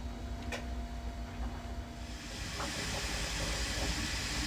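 Steady low machine hum with a click about half a second in; about two seconds in, a broad, even hiss comes up and runs on.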